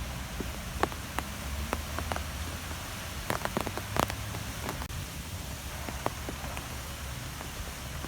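Steady outdoor wind noise with a low rumble underneath, dotted with scattered sharp ticks that cluster about three to four seconds in.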